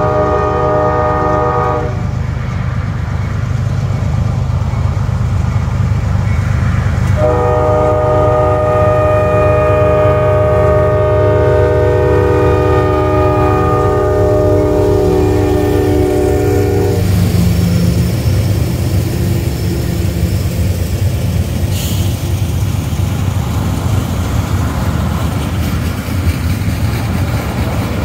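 A freight train led by a GE ES40DC diesel locomotive sounds its multi-note air horn: a blast that ends about 2 s in, then one long blast from about 7 to 17 s as the locomotives approach and pass. A heavy low rumble of engines and wheels runs under it, and afterwards the freight cars roll by with wheels clacking over the rail joints.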